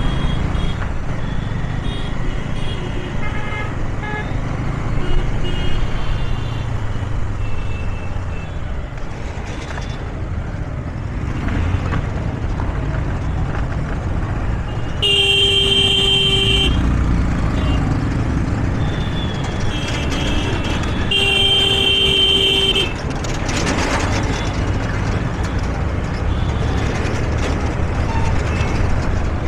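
Road traffic with a steady low engine and road rumble. A vehicle horn sounds twice, about halfway through and again some six seconds later, each honk lasting about a second and a half, with fainter short horn toots from other traffic in the first few seconds.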